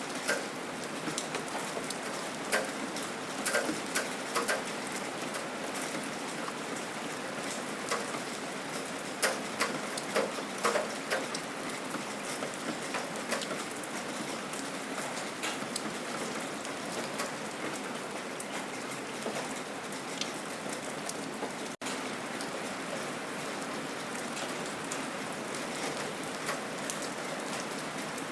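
Steady gentle rain falling, a even hiss with distinct heavier drops ticking on a nearby surface, most often in the first half. The sound cuts out for an instant about two-thirds of the way through.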